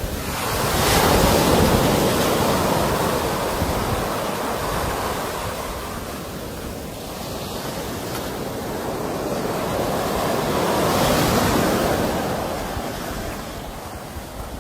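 Sea waves breaking on a shore: a steady wash of surf that swells twice, once near the start and again about two-thirds of the way through, with wind buffeting the microphone.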